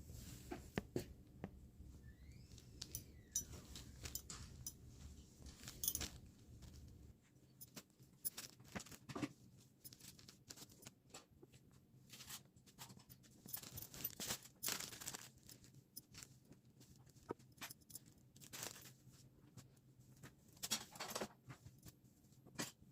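Faint handling sounds from unpacking a clothing parcel: scattered light clicks, rustling and short tearing sounds of packaging and fabric, with a longer rustle about 14 to 15 seconds in.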